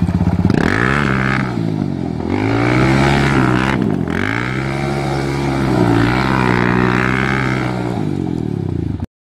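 Adly 300 XS quad's engine revved through its exhaust: it idles, then is blipped up and let fall back about three times, the longest rev held for a few seconds. The sound cuts off suddenly near the end.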